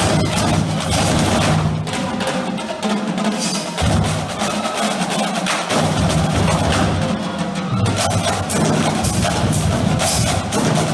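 Marching drumline playing a cadence: a dense run of snare and tenor drum strokes with sharp clicking hits over it and low tuned bass drum notes, which drop out for a couple of seconds a little after the middle and then come back.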